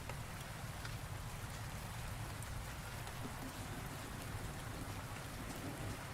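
Steady rain falling, with many fine drop patters over a low, steady rumble.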